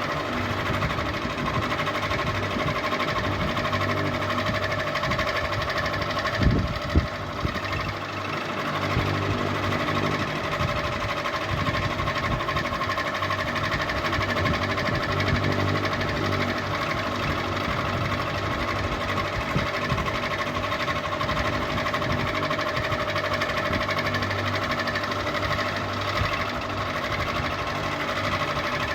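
Ceiling fan running steadily: a constant motor hum with a busy mechanical rattle, and two short knocks about six and a half and seven seconds in.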